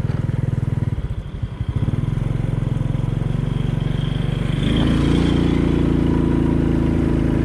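Motorcycle engine running steadily; it eases off briefly about a second in, then picks up speed around five seconds in, its pitch rising and holding higher.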